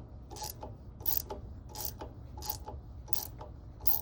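A 9/16 ratchet wrench clicking in short bursts about every 0.7 s, six times, as it is worked back and forth to turn an impeller puller's threaded rod against the pump shaft, starting to draw a stuck impeller out of a marine seawater pump.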